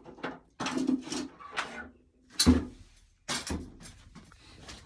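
Irregular knocks and rustling of dry ears of corn being handled and dropped, with one louder thud about two and a half seconds in.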